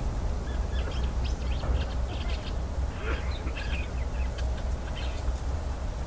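Birds chirping: a rapid, irregular run of short high calls over a steady low rumble.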